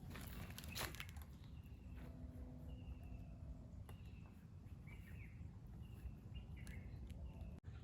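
Forest birds calling: a series of short, even whistled notes, about one a second, with a few quicker chirps, over a low steady rumble. A couple of footsteps are heard in the first second.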